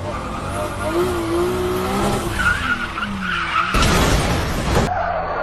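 Car tyres skidding and squealing on the road, a wavering high squeal over lower tones that bend in pitch. About four seconds in, a loud burst of noise lasts about a second.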